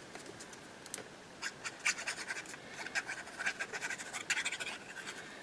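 Paper and card scratching and rustling as tickets are handled and rubbed down onto a paper pocket: a quick, irregular run of short scratches starting about a second and a half in.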